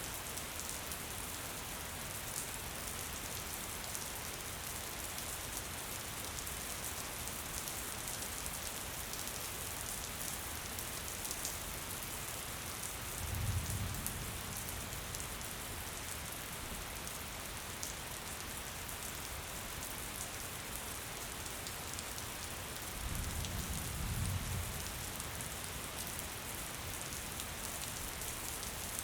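Gentle rain falling steadily: an even hiss of many fine drops. Two short low rumbles rise out of it, one about halfway through and another some ten seconds later.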